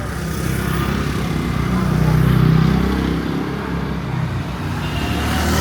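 Engine of a motor vehicle passing close on a street, growing louder to a peak about two and a half seconds in and fading, then another vehicle coming up near the end.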